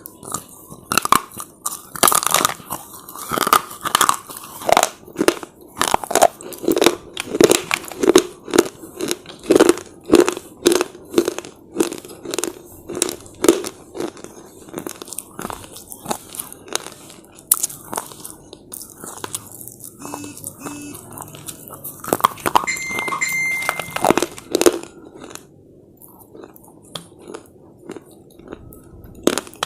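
Slate chips being bitten and chewed close to the microphone: a run of sharp, brittle crunches several a second, thinning out past the middle and easing off near the end.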